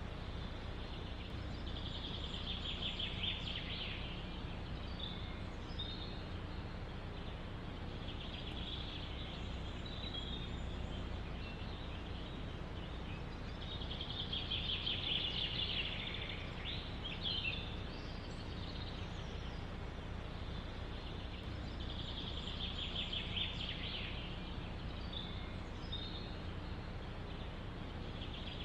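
Songbirds singing in woodland: a rapid trilled phrase repeats about four times, roughly every six to eight seconds, with short chirps between, over a steady low rumble of wind.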